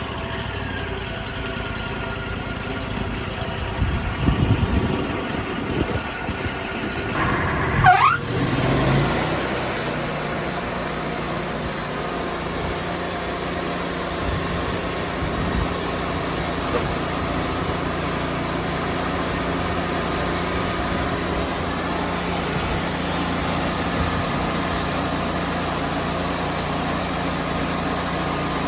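Sawmill engine running after a cold start. About eight seconds in it revs up with a short rising whine, then settles into a steady, higher run.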